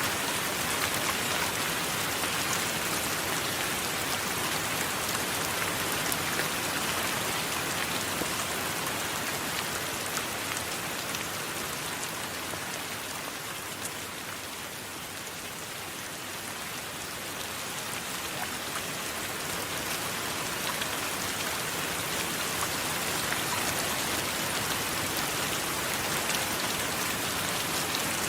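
Steady heavy rain falling on a surface, an even hiss with fine scattered drop patter, easing a little about halfway through and then picking up again.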